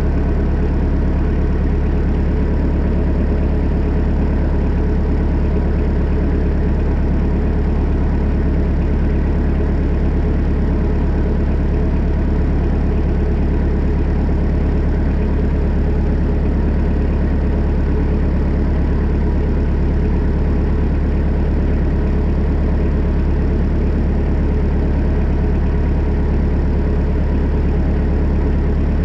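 Kubota B3000 tractor's diesel engine running steadily at an even speed, with no revving.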